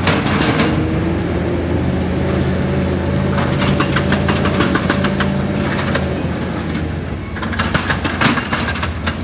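Heavy excavator's diesel engine running under load with a hydraulic whine that rises and falls in pitch. Three bursts of rapid clattering, crunching impacts come at the start, in the middle and near the end, as the machine works through rock.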